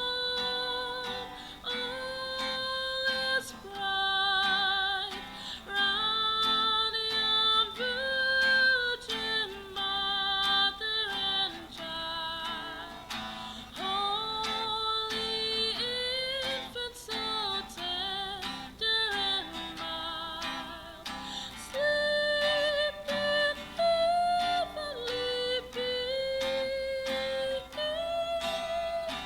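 A song: a solo voice singing a slow melody with vibrato over a plucked-string accompaniment.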